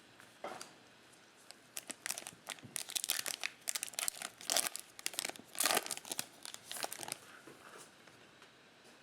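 A trading card pack's wrapper being torn open and crinkled by hand: a run of sharp crackling and tearing for several seconds that dies away near the end.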